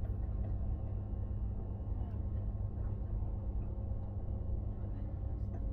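Steady low rumble and hum inside an SJ train carriage, with a few faint ticks.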